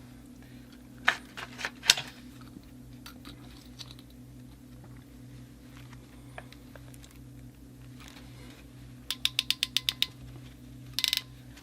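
A few scattered clicks of fittings and tubing being handled. Then a crimp tool ratchets about eight times in under a second as it closes a stainless steel crimp ring onto a PEX fitting. A steady low hum runs underneath.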